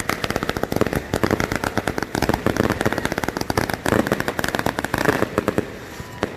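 Fireworks crackling: a dense run of rapid sharp pops, many a second, thinning out near the end.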